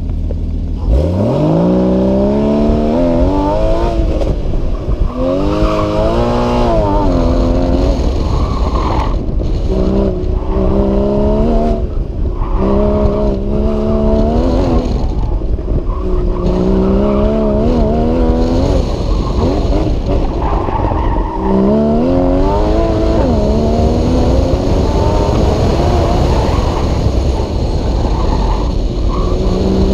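Porsche Cayman GTS engine under hard driving, heard from inside the cabin: it pulls away from idle about a second in, then the revs climb and drop again and again as the car accelerates and slows between the cones of an autocross course.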